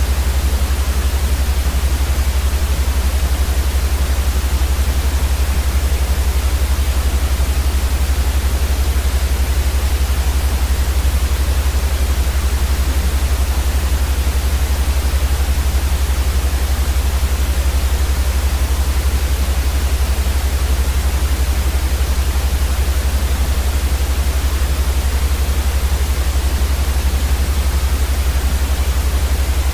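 Steady white noise, an even hiss across the whole range with a heavier low rumble underneath, unchanging throughout.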